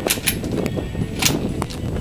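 Wind buffeting the microphone: a steady low rumble, with a couple of short, hissy crackles near the start and about a second in.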